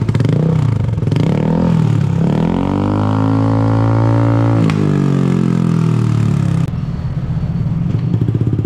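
Motorcycle engine idling through an aftermarket exhaust and being revved: a couple of short blips, then one long rev that rises and falls back to a steady idle.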